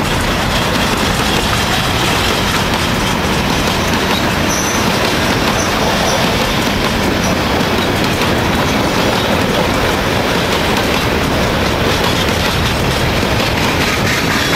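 Freight train wagons rolling past with the steady clickety-clack of steel wheels on the rails, mixed with the banging of flat spots worn into the wheels of some wagons.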